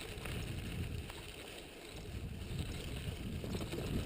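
Wind buffeting the microphone: an uneven low rumble that dips briefly near the middle, with a few faint clicks.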